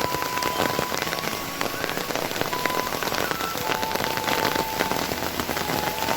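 Rain falling steadily in a dense patter of drops hitting a surface. A few faint, steady whistle-like tones come and go over it.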